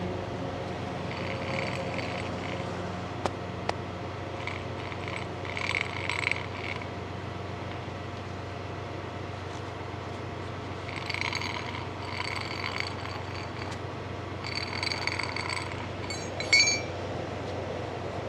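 Steady engine hum with intermittent metallic clinks and scraping, two sharp clicks about three seconds in, and a loud clank near the end.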